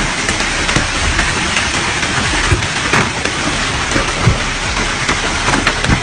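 Loud rain and wind: a dense, steady rush with scattered sharp taps of drops striking a surface.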